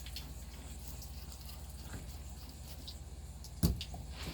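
Faint handling sounds as fins are cut and pulled off a blacktip shark carcass, with a few light ticks and one sharp knock about three and a half seconds in, over a steady low hum.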